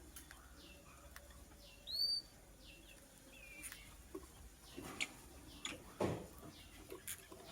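Lovebird chirping in a series of short high chirps, with one louder, arched whistled chirp about two seconds in. A few short knocks sound near the end.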